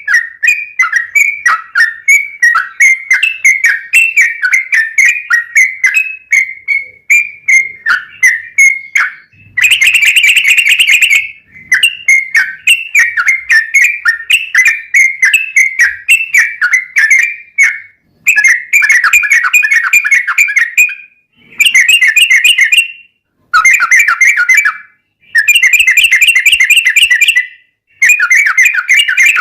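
Sooty-headed bulbul (trucuk) singing. It first gives a fast stream of short whistled notes, about four a second. From about nine seconds in it breaks into a series of dense, rapid chattering phrases, each one to three seconds long with short pauses between.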